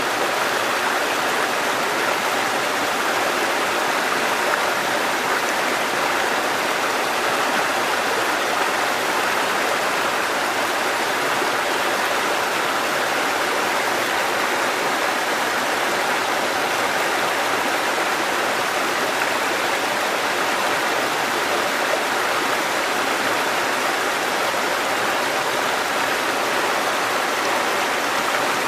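Water cascading over rocks in a mountain stream: a steady, even rushing.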